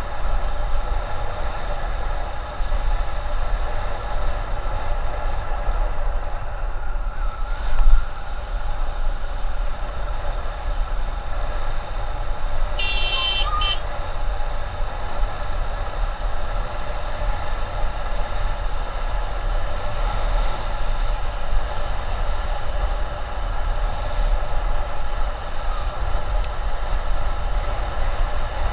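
Motorcycle running steadily at road speed, with heavy wind rumble on the microphone. A brief loud thump comes about a third of the way in. A high-pitched horn sounds for about a second near the middle.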